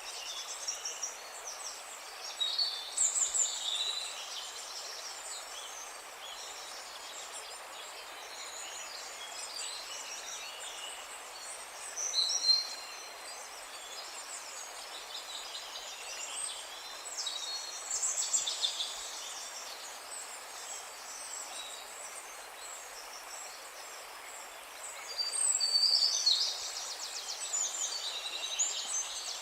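Wild birds singing and calling in scattered high-pitched bursts over a steady outdoor hiss, with the busiest bursts about halfway through and near the end.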